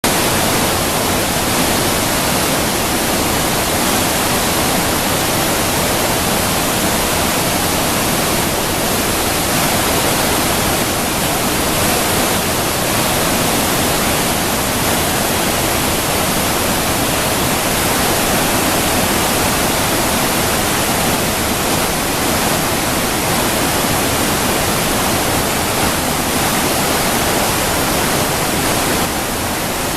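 Fukiware Falls, river water pouring over rock ledges into a gorge: a loud, steady rush of falling water, easing slightly near the end.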